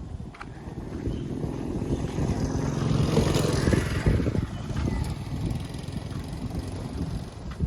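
A motor vehicle driving past, its engine sound rising to a peak about three seconds in and then fading away.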